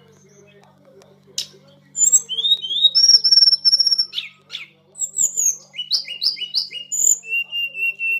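A tledekan gunung songbird singing, starting about two seconds in with a fast, varied run of clear whistled phrases: rising slurs, quickly repeated notes and short falling notes. This is the nonstop, wild singing that bird keepers call 'konslet'.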